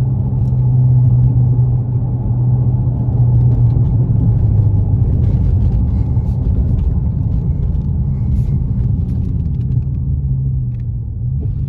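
Dodge Challenger Scat Pack Widebody's 392 Hemi V8 rumbling steadily while driving, its low engine note easing off about four seconds in and picking up again near the end.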